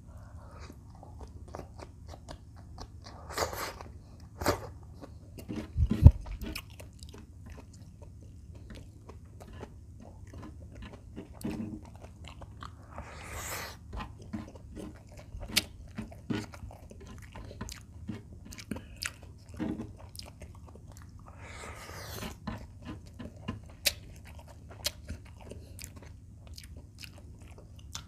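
Close-miked eating: a man biting and chewing fried chicken breast and sweet potato tops, with wet mouth clicks and smacks scattered throughout and a few crunches. A sharp low thump about six seconds in is the loudest sound.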